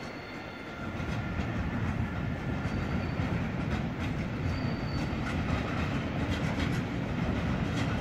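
Freight train of tank wagons rolling past: a steady rumble of steel wheels on the rails that grows louder about a second in, with wheel clicks over the rail joints and a few faint, brief high-pitched squeals.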